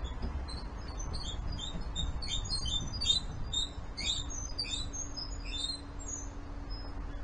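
Small birds chirping, many short, high calls overlapping, thinning out near the end, over a low outdoor rumble. A faint steady low hum comes in about halfway through.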